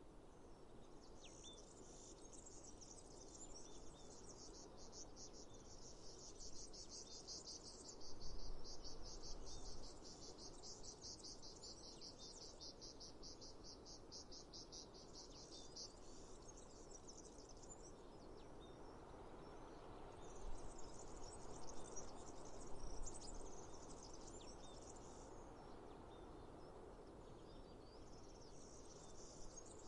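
Insects trilling: a high, rapidly pulsed buzz that starts about a second in, breaks off after about fifteen seconds and comes back twice, over a steady low background hiss. Two spells of louder low rumble come in, about eight seconds in and again near the twenty-second mark.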